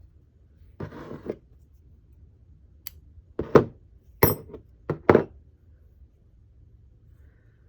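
A brief rustle of yarn, then a run of sharp clicks and clinks as small crafting tools are handled and set down on a tabletop.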